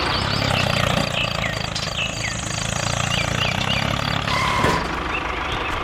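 A small engine of a miniature tractor or truck running steadily. A fast, high-pitched pulsing beep sounds over it for about the first four seconds, with short chirps scattered throughout.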